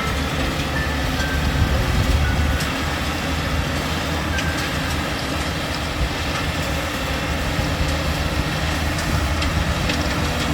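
Tractor engine running steadily as the tractor is driven, with light clattering over the engine noise.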